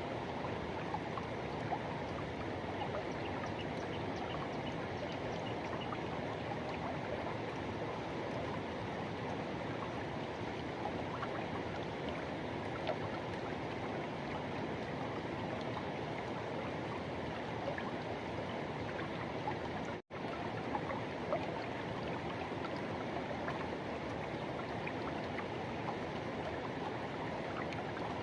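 Forest river rushing steadily, a dense even rush of flowing water with a few small splashes in it. The sound cuts out for a split second about twenty seconds in.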